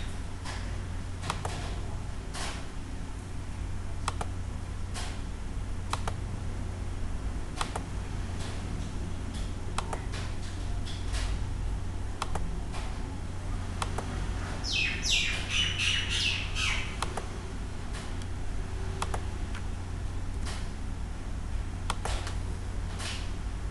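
Birds chirping in the background, with a short burst of rapid squawking chatter about fifteen seconds in, over a steady low hum and scattered light clicks.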